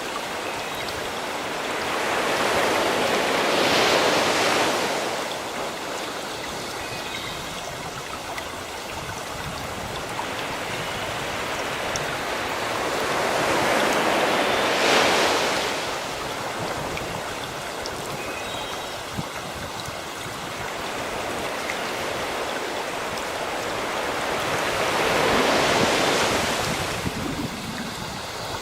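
Sea waves breaking on a shore: a steady wash of surf that swells to a crash and subsides three times, about every eleven seconds.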